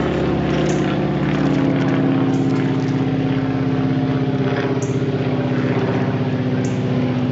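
An engine running steadily at an even speed, with a fast pulse, loud and unchanging. Three short, faint high chirps come through over it.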